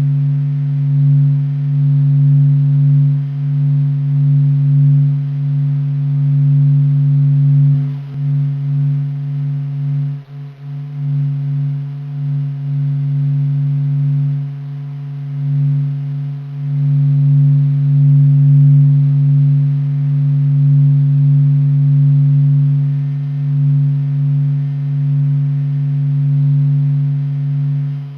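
Low, steady hum of the sun's surface vibrations made audible (NASA's sonified solar data, sped up into hearing range), swelling and ebbing slowly, with brief dips about eight and ten seconds in.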